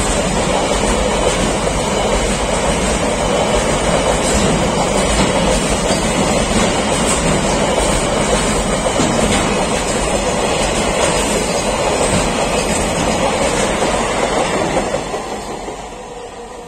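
Indian Railways BCACBM covered car-carrier wagons rolling past close by, a loud, steady rumble of wheels on the rails. It fades away over the last couple of seconds as the end of the train passes.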